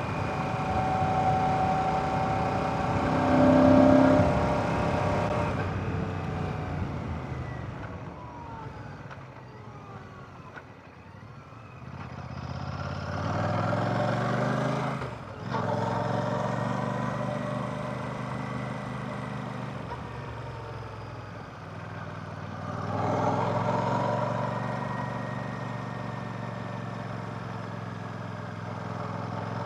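Royal Enfield Classic 650's 648cc air/oil-cooled parallel-twin engine under way. It is loudest about four seconds in, then eases off. About halfway through the revs climb and drop out briefly for a gear change, fall away, and build again near the end.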